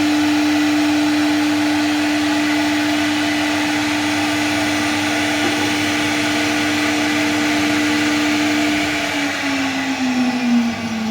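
CNC router spindle running at a steady high whine, then winding down in pitch over the last two seconds or so as it is switched off and spins down.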